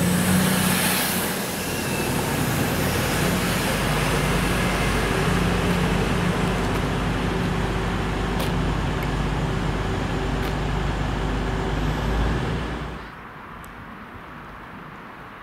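Class 222 Meridian diesel multiple unit running through the station: a steady loud rush of wheel and engine noise with a low hum underneath. About thirteen seconds in it cuts off suddenly to a much quieter background with a few faint clicks.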